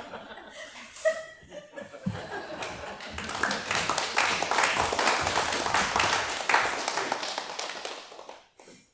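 Audience laughing, then breaking into applause that swells and dies away near the end.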